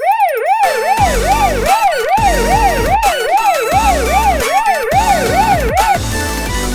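Electronic emergency-vehicle siren in a fast yelp, the pitch sweeping up and down about two and a half times a second, stopping about six seconds in, over low pulsing beats.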